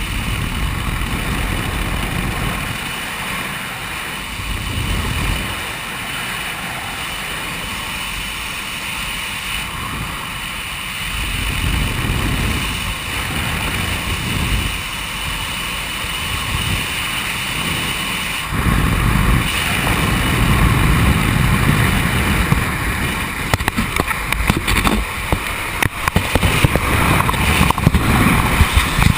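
Wind rushing and buffeting over the microphone on a Quicksilver MX Sport open-frame ultralight, heavier about two-thirds of the way in, with rapid knocks and rattles in the last few seconds.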